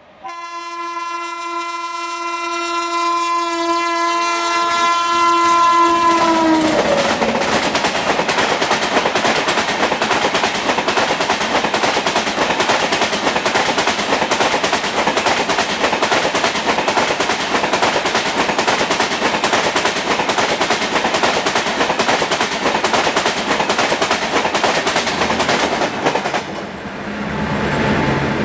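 A train's horn sounds one long blast for several seconds, its pitch dropping as it ends, then the train of LHB coaches rushes past at speed with a rapid clickety-clack of wheels over the rail joints. The clatter cuts off sharply near the end as the last coach passes, leaving a fading rumble.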